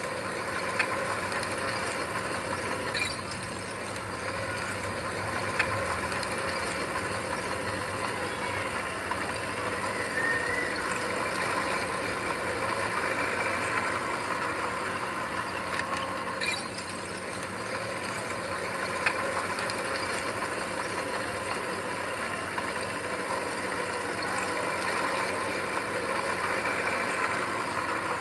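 Heavy earthmoving machinery running steadily, its diesel engine droning under a continuous mechanical rattle, with a few sharp clanks now and then.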